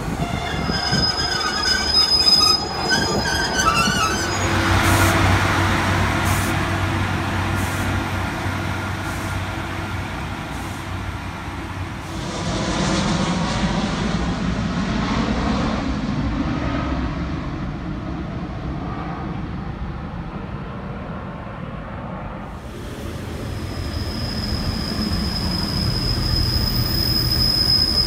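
Railway sounds in several short takes. A diesel multiple unit at the platform with wavering, high wheel squeal and then a steady low engine hum. Next, a jet airliner passes overhead and fades away. Then, about three quarters through, a Class 142 Pacer diesel unit stands with its engine running under a steady high-pitched whine.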